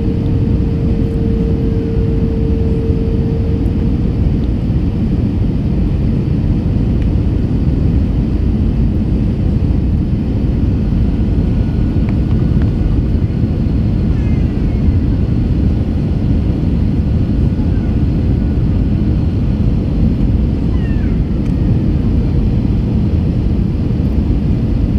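Airbus A321 cabin noise: a steady low rumble of engines and airflow. A steady hum fades out within the first few seconds.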